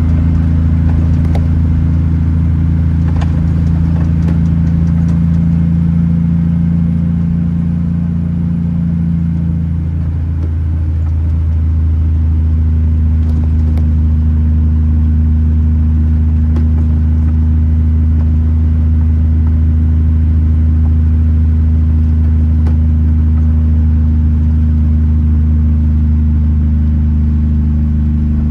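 Kenworth T909 truck's diesel engine droning steadily at constant revs, a deep even hum, with a slight change in tone about ten seconds in.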